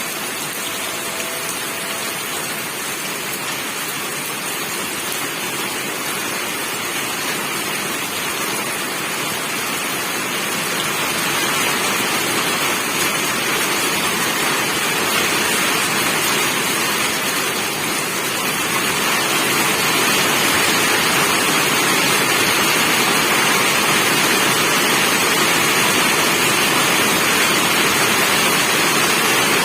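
Steady rain, a continuous hiss that grows heavier about a third of the way in and again about two-thirds of the way in.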